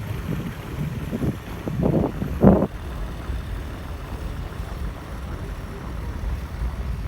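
Wind buffeting the microphone in a snowstorm, a steady low rumble.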